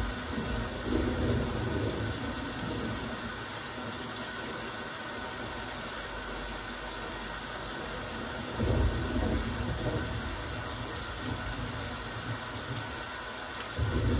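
Steady rain hiss, with low rumbling swells at the start and again at about nine seconds.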